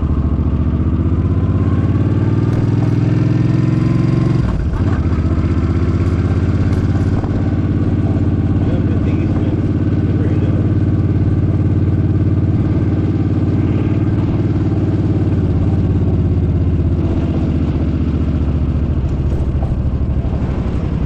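Suzuki Boulevard M50's V-twin engine under way, pulling up in revs, with a sudden drop in pitch about four and a half seconds in as it shifts gear, then running steadily at cruising speed and easing off near the end.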